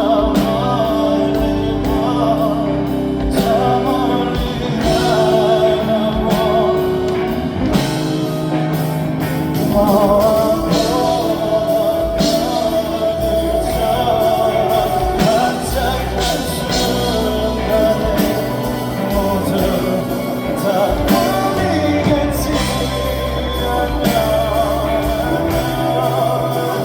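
Live pop-rock band playing a ballad with long, sustained sung notes over full accompaniment.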